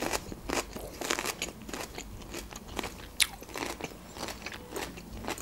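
Close-up mouth sounds of a person chewing food: irregular wet clicks and smacks. A sharper click about three seconds in, as a fork works in a ceramic bowl of rice and mussels.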